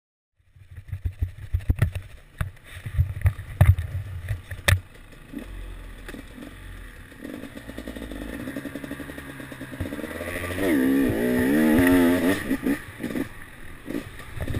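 Enduro motorcycle engine: low running with several sharp knocks and blips in the first few seconds. From about ten seconds in, the revs rise and fall repeatedly and grow louder as the bike accelerates away.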